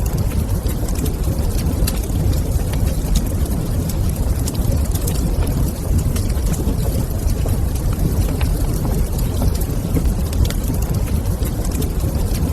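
Wood fire burning in a fireplace: a steady low rumble with many small crackles and pops scattered irregularly through it.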